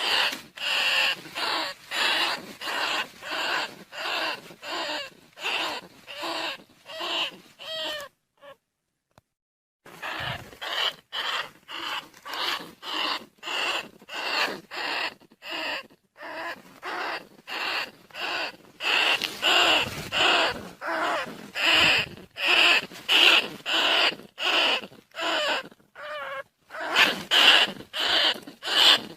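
Recorded rat squeaks, the call of rice-field rats and bandicoot rats played as a lure to draw them in: a rapid string of short squeaking calls, nearly two a second, broken once by a pause of about a second and a half after about eight seconds.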